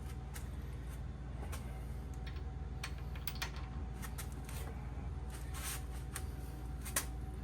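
Irregular light metallic clicks and clinks of hand tools and sockets working the main bearing cap bolts on an engine block, over a steady low hum.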